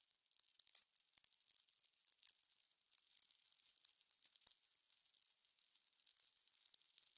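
Fire crackling: a soft hiss with dense, irregular pops and crackles.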